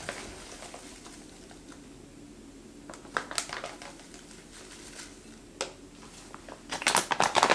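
Baking soda packaging crinkling and rustling as it is handled: a few crinkles about three seconds in, then a denser run of them near the end.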